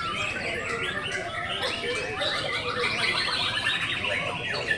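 Several songbirds singing and chattering at once, overlapping warbles and chirps, with a fast trill running through the middle.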